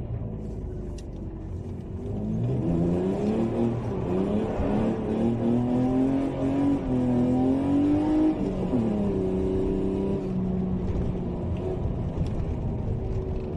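BMW E36 325's straight-six engine through a Supersprint headers exhaust, revving up with its pitch climbing from a couple of seconds in, dropping sharply about two-thirds of the way through, then running at a steady speed.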